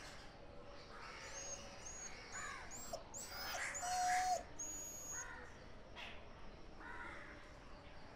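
Birds calling: crow caws mixed with short, high chirps, and a louder held whistled call about four seconds in.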